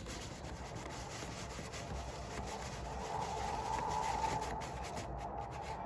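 Steady rushing, rubbing noise standing in for a sandstorm, swelling a little in the middle.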